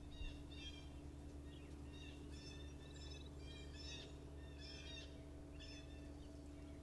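Wild birds calling around a feeder, short calls repeated about once a second, faint over a low steady hum.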